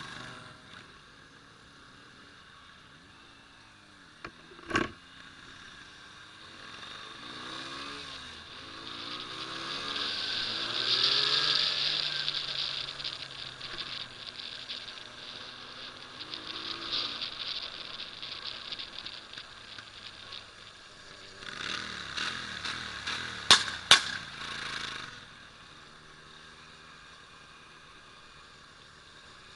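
Motorcycle engines running and revving, the engine note climbing and falling as the bikes pull away and shift, with the sound swelling as they pass. Three sharp knocks stand out, one about five seconds in and two close together near the end.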